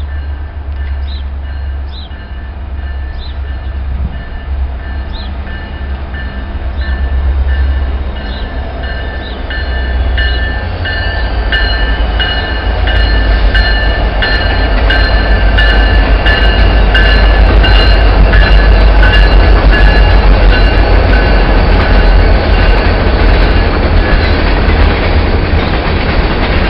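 A diesel-hauled train passing close by: the deep engine rumble builds and grows louder, with high steady squealing tones, then from about ten seconds in the wheels click and clatter over the rail joints as the cars roll past.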